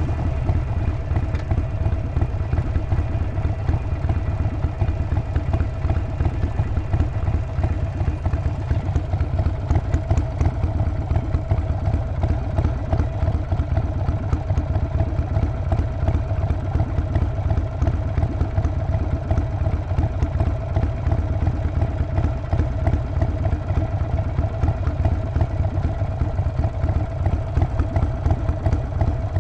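Harley-Davidson Sportster Forty-Eight's air-cooled 1200 cc V-twin running steadily through its exhaust, the engine speed holding even with no revving.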